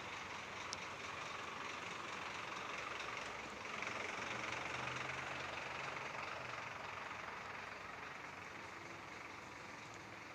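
Roadside traffic noise with a motor vehicle passing: its engine hum swells about four seconds in, then fades over the next few seconds.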